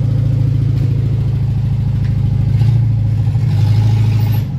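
Toyota K-series four-cylinder engine, swapped into a Mercedes-Benz W115 sedan, idling with a steady exhaust beat. The revs lift slightly a couple of times in the second half.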